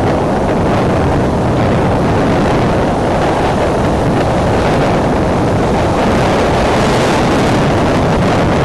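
Strong wind buffeting a nest webcam's microphone: a loud, steady rumbling roar of gusts with no let-up.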